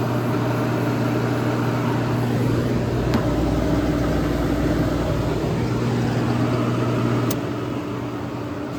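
Vintage window air conditioner running, its compressor and fan motor making a steady hum. A sharp click comes about three seconds in and another near the end, after which the unit runs somewhat quieter.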